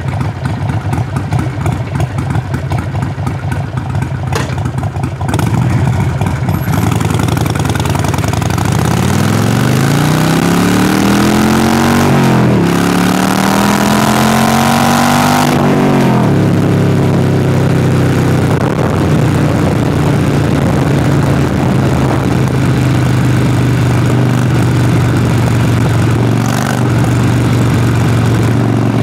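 Harley-Davidson Sportster Forty-Eight's V-twin exhaust, running at low revs at first and then accelerating. The revs climb, dip at a gear change about halfway through, climb again, and then settle into a steady cruise for the rest.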